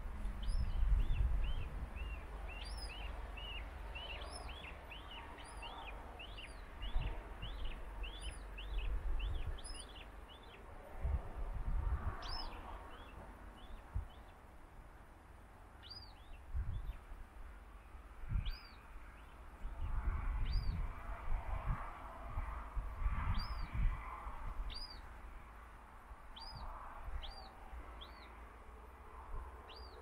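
A bird chirping: a quick run of short, high chirps for about the first ten seconds, then single chirps every second or two. Low rumbling comes and goes underneath.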